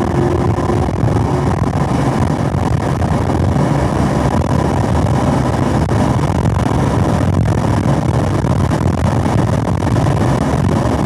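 Chevrolet Camaro SS 1LE's 6.2-litre V8 at high revs in fourth gear, heard from inside the car, accelerating hard as speed and revs climb toward the redline.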